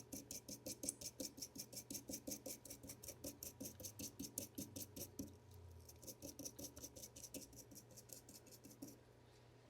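Rhythmic back-and-forth scrubbing on the contacts of a robot vacuum sensor's flex cable during cleaning for a connector repair, about four to five strokes a second. The strokes stop shortly before the end.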